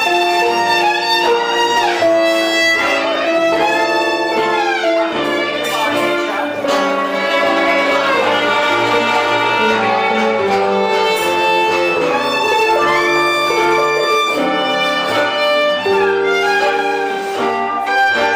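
Live gypsy-style band music, with a violin playing a wavering lead melody over lower sustained accompaniment.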